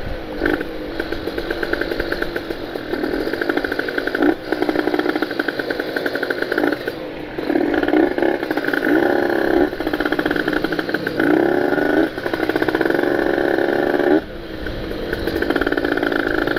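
Ported Kawasaki Ninja RR's two-stroke single-cylinder engine being ridden, its revs climbing and falling, with brief drops about four times as at gear changes.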